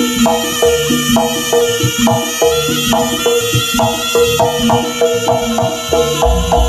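Javanese jaranan music played live through a large sound system: a fast, evenly repeated pattern of pitched gamelan-style metal percussion over kendang drumming. A heavy bass drum comes in about six seconds in.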